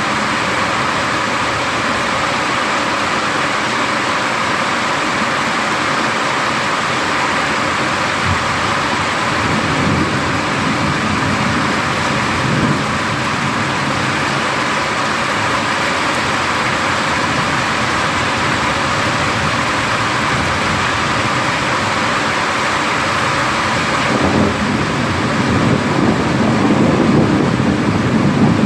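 Steady hiss of heavy rain during a thunderstorm. A low rumble of thunder builds over the last few seconds.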